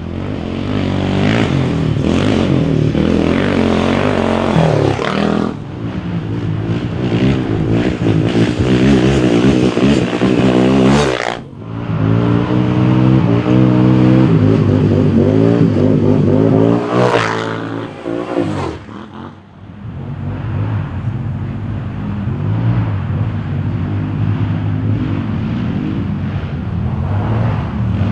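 Quad (ATV) engine revving hard and easing off repeatedly under riding, its pitch climbing and dropping with the throttle. It cuts out briefly about eleven seconds in and again near nineteen seconds.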